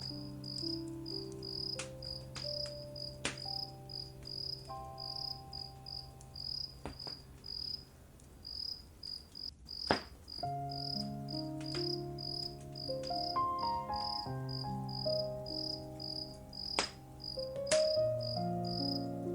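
Crickets chirping steadily, about four chirps a second, over soft sustained music notes that change slowly. A few sharp crackles of a burning wood fire cut through, the loudest about halfway through.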